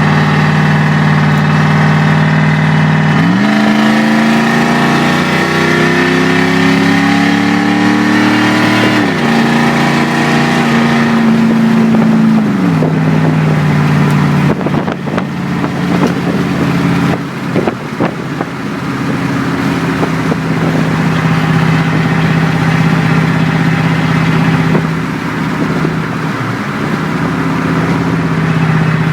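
Dodge Ram's 318 (5.2 L) V8 running through straight pipes with no cats and no mufflers, under way on the road. About three seconds in, the exhaust note climbs as the truck accelerates, drops back at a shift, then settles to a steady cruise. A short run of knocks and rattles comes about halfway through.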